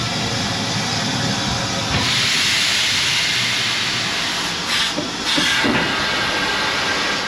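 Steam locomotive venting steam: a loud, steady hiss that grows stronger about two seconds in, with two short swells near the end.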